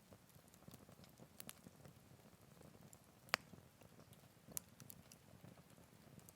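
Wood campfire crackling faintly: scattered small pops and ticks, with one sharp pop a little over three seconds in and another about a second later.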